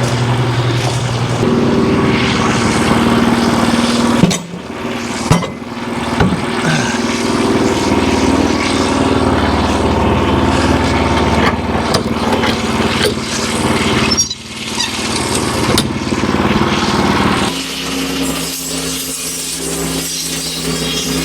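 Small gasoline engine running steadily under varying load, with two sharp knocks about four and five seconds in. Near the end it settles into a quieter, different steady drone.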